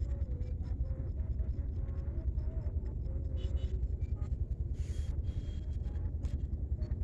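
A steady low rumble with a fluttering, uneven loudness, with a faint wavering tone above it and a few light clicks.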